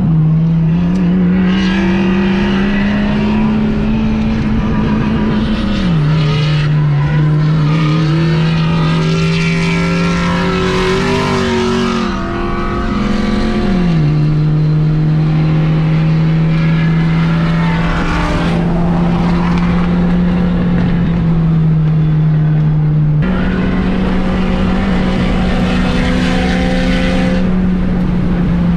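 Honda Fit's 1.5-litre four-cylinder engine running hard at high revs on a race track, holding a steady note with pitch steps at gear changes: it drops twice, about six and fourteen seconds in, and jumps up once, about twenty-three seconds in. Other engine and tire sounds are mixed in above it.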